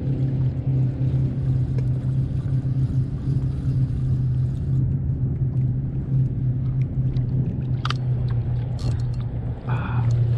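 Steady low hum of a boat motor running, with a few short clicks near the end.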